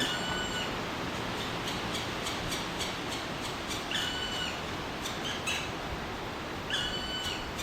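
Black woodpecker nestlings begging for food from the nest hole: three drawn-out, level calls a few seconds apart, with quick short chirps in between.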